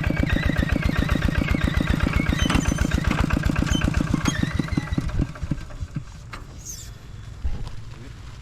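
Engine running with an even, rapid beat, then shut off: the beats slow and space out, and it stops about five seconds in.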